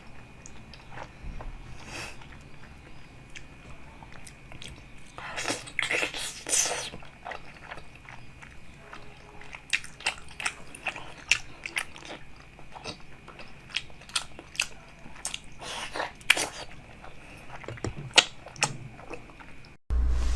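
Close-miked eating: biting and chewing with many sharp crunching clicks, densest about five to seven seconds in and again around sixteen seconds. It stops abruptly near the end.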